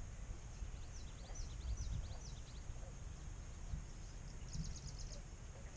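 Small birds chirping: a string of short down-slurred chirps a second or two in, then a quick rattling trill near the end, over a steady low rumble.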